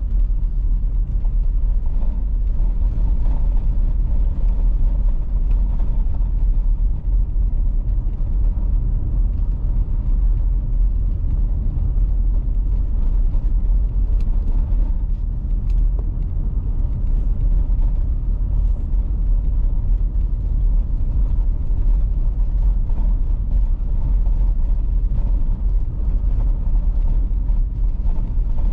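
Car driving on an icy road: a steady low rumble of engine and tyres, with faint scattered ticks over it.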